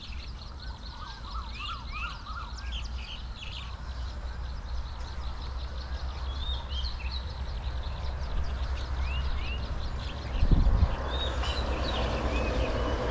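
Small birds chirping over and over in short, hooked calls, above a steady low rumble. From about eight seconds in a broad rushing noise swells, and a single low thump comes a little after ten seconds.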